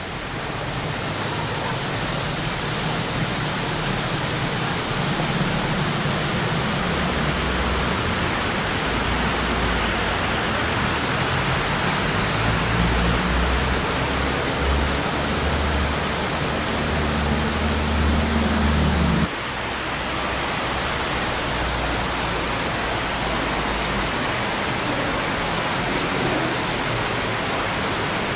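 Steady rushing of falling water, an even noise across all pitches. A low rumble underneath stops abruptly about two-thirds of the way through.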